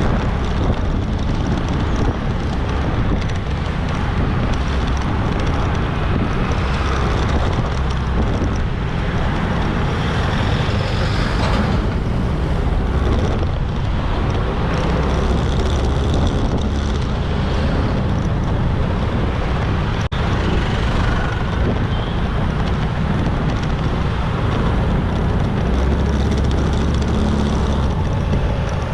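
Motorbike riding through busy town traffic: a steady rush of wind and road noise with the engine running and other vehicles passing.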